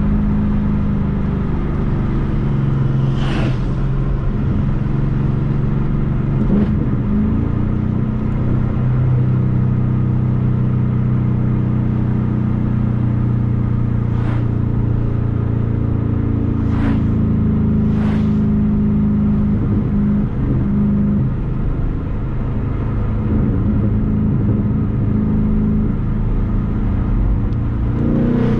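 Ford Mustang GT's V8 engine running at moderate, fairly steady revs, its low note shifting in pitch a few times as the revs change. A handful of short sharp clicks or taps are heard over it.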